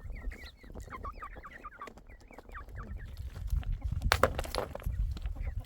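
Chickens clucking, a quick run of short calls in the first two seconds, over a low rumble; a few sharp knocks about four seconds in.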